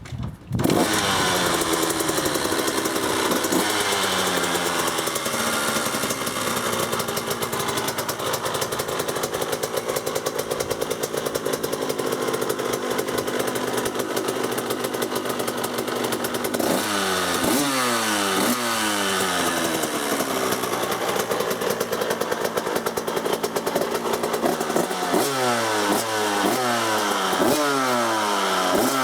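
A 2006 KTM 85 SX's single-cylinder two-stroke engine catches about half a second in on a cold start and keeps running. Near the middle and again near the end the throttle is blipped several times, each rev climbing quickly and falling back.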